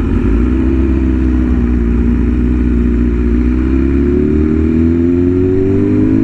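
Inline-four sport bike engine running on the road at a steady cruise, its note sagging gently and then climbing smoothly over the last couple of seconds as the throttle is rolled on, with wind rumbling on the microphone.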